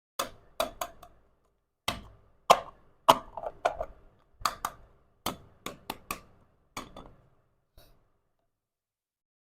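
Small miniature toy-kitchen pieces being handled and set down: an irregular series of sharp clicks and light clinks, some in quick pairs and clusters, stopping about eight seconds in.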